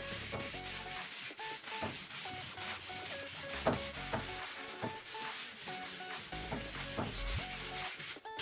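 Sandpaper rubbed back and forth by hand on raw oak trim, a rasping scrub in strokes about twice a second.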